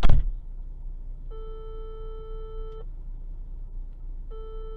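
A sharp loud bang, then two identical long steady beeps, each about a second and a half, about three seconds apart.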